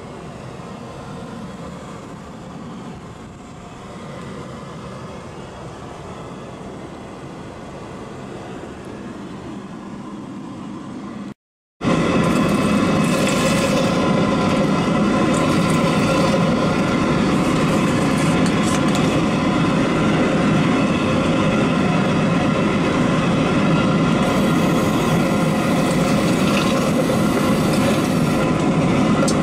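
Steady cabin noise of a Boeing 777-200LR airliner in flight: an even rush of air and engine noise. After a brief cut about eleven seconds in, it is much louder, with several steady humming tones running through it.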